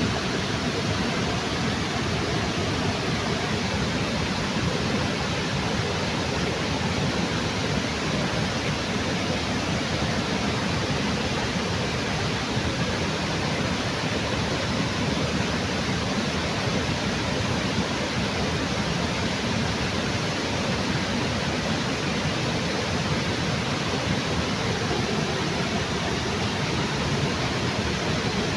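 Waterfall in a river, water pouring with a steady, unbroken rush.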